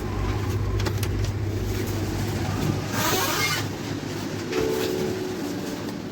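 A train standing at a station: a steady low hum, with a short hiss of released air about three seconds in.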